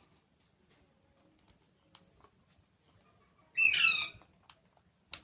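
A baby parrot gives one loud squawk of about half a second, a little past halfway, with a few faint clicks around it.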